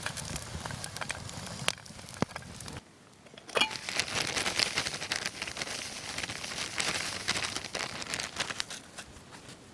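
Campfire crackling and popping, with many sharp snaps. It drops out for a moment about three seconds in, then comes back louder.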